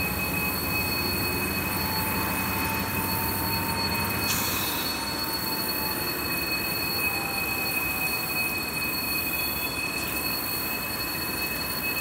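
A mixed freight train's cars rolling steadily past, with a continuous rumble and a steady high-pitched wheel squeal.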